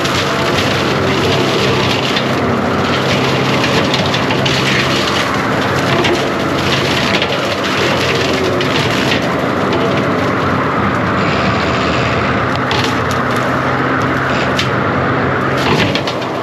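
John Deere 333G compact track loader's diesel engine running steadily under load, with repeated cracking and splintering of wood as its cutting attachment tears through limbs and brush.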